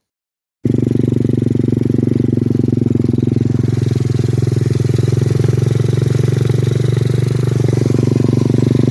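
SSR 125cc dirt bike's single-cylinder four-stroke engine running steadily, cutting in abruptly less than a second in.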